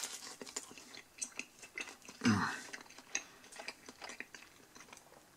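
A person chewing a bite of soft, greasy Pizza Hut pan pizza crust: irregular small wet clicks and smacks, with a brief murmur about two seconds in.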